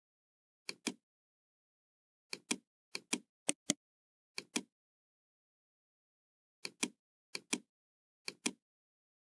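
Computer mouse clicking: eight double clicks spread irregularly, each a pair of sharp clicks, with dead silence between.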